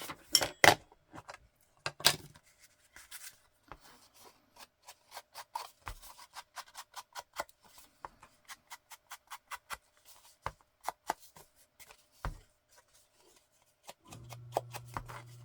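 Rapid light tapping, about four dabs a second, of ink being dabbed onto paper, after a few louder clicks at the start. Near the end a steady low hum from laundry machines running starts up.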